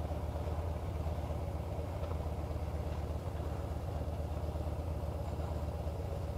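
Harley-Davidson V-twin engine idling steadily with the motorcycle at a standstill.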